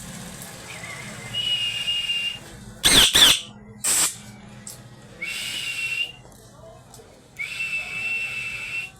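Pet green parrot whistling and screeching: three long whistles held at one level pitch, with a couple of short, loud, harsh screeches about three seconds in.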